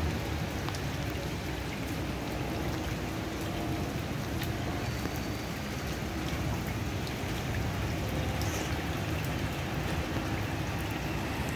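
Steady rain falling on a wet paved path and lawn, an even hiss with a few sharper drip ticks now and then.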